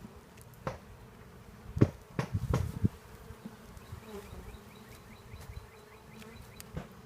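Honeybees buzzing steadily around an open hive, with a few sharp knocks as hive parts are handled, the loudest about two seconds in.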